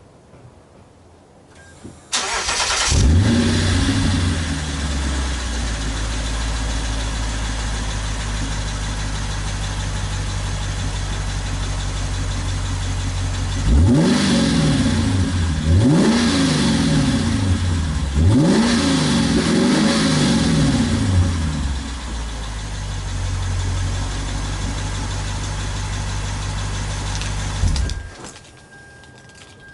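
Lexus IS-F's 5.0-litre V8 breathing through an HKS mid-pipe and HKS SSM muffler: it starts about two seconds in with a short flare, settles to a steady idle, then takes a few light throttle blips toward 3,000 rpm, each rising and falling, before idling again and shutting off near the end. This is the warm start.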